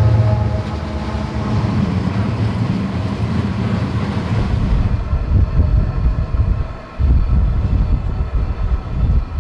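Freight train running: a dense low rumble. A steady low hum fades out in the first second, and the sound changes character about five seconds in, briefly dropping away near seven seconds.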